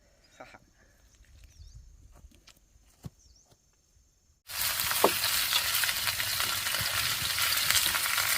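Quiet at first with a few faint ticks, then, about halfway through, loud steady sizzling of food frying in hot oil begins abruptly.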